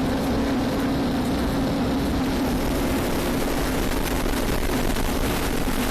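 Police cruiser driving at high speed in a pursuit: a steady engine drone under heavy road and wind noise.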